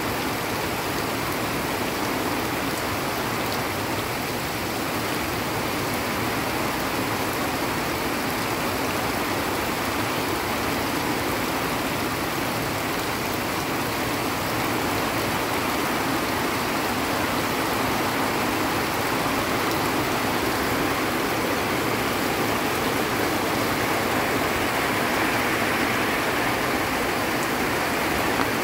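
Heavy rain falling steadily on tropical foliage and ground, an even hiss. Near the end the rush of muddy runoff water flowing down the slope grows a little louder.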